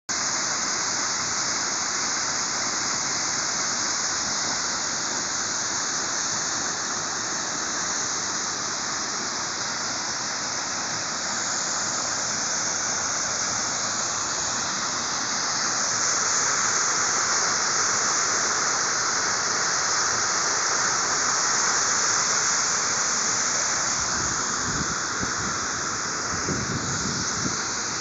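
Waterfall: a steady, loud rush of falling water, with a few low thumps near the end.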